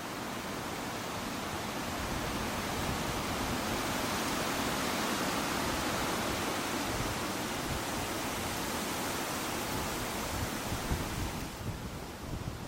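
Strong wind rushing through trees, fresh leaves and branches rustling against each other. A gust swells through the middle and eases near the end, with some wind buffeting on the microphone.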